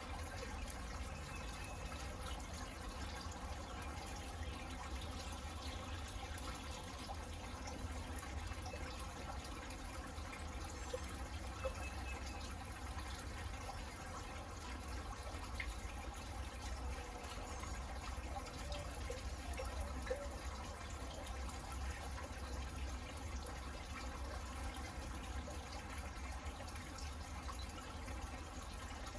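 Steady rain falling, an even hiss with a few scattered drips, over a steady low rumble.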